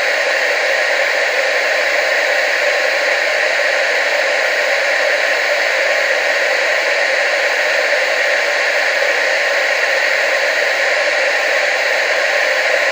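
TV static: a steady, even hiss with no deep bass that does not change.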